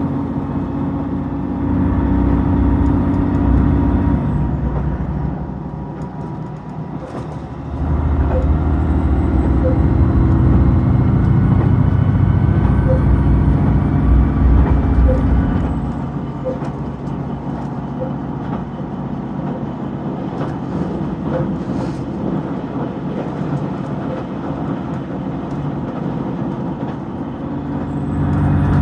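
JR Shikoku 2000 series diesel railcar's engine running as the train travels, heard from on board: the engine hum swells under power for a few seconds, eases off, pulls hard again for about eight seconds, then drops back to a quieter steady run.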